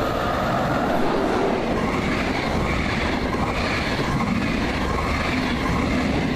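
Swiss Federal Railways double-deck intercity train, hauled by an electric locomotive, running past at speed: a steady rush of wheel and air noise with a regular clatter of the wheels as the coaches go by.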